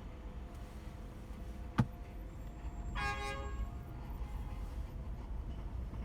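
Steady low rumble of a car driving in traffic, with a single sharp click a little under two seconds in and a short car horn honk about a second later.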